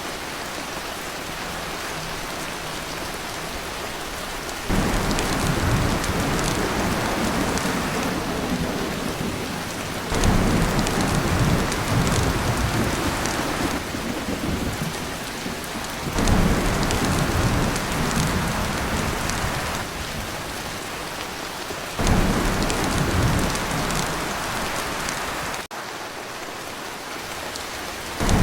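Heavy rain drumming on a tin roof, with thunder rumbling in four rolls that each start suddenly, roughly every six seconds.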